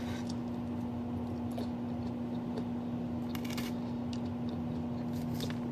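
Eating sounds from a salad meal: a few soft clicks and chewing noises, the clearest about halfway through and near the end, over a steady low hum.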